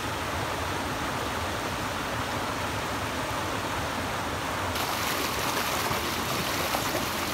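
Steady rush of flowing water, a creek running fast over rocks, getting brighter and louder in the highs about two-thirds of the way through.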